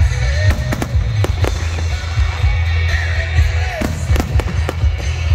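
Aerial firework shells bursting in quick succession: a string of sharp cracks and bangs over a deep continuous rumble, with music playing in the background.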